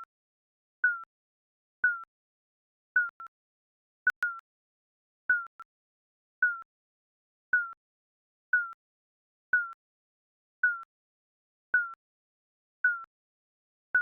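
Digital countdown timer beeping, one short electronic beep about every second, each at the same pitch and dipping slightly as it ends.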